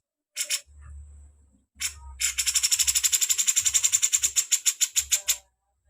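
A songbird gives a few short, sharp call notes, then a fast dry chatter of about ten notes a second for some three seconds. A faint low hum runs underneath.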